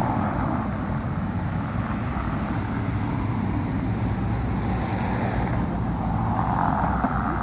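Steady low rumble of a motor vehicle running, with road noise that swells briefly near the end.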